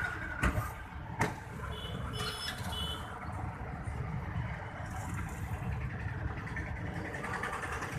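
Car engine running steadily at idle, with two sharp clicks in the first second or so and a brief high-pitched squeak at about two seconds.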